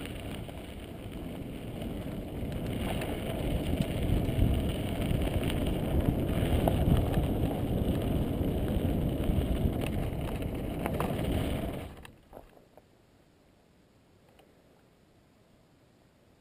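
Mountain bike riding singletrack: rumble from the tyres and trail, with wind buffeting the microphone and a few sharp clicks from the bike. It gets louder for several seconds, then cuts off suddenly about twelve seconds in, leaving only a faint hush.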